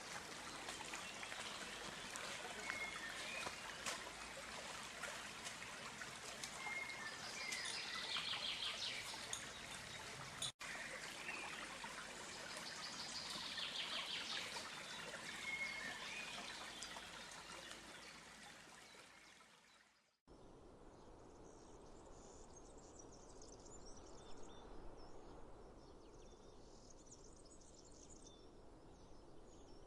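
Steady rush of running water with short bird chirps over it, briefly cut near the middle and fading out about two-thirds through. It gives way to a quieter outdoor ambience with faint, high bird chirps.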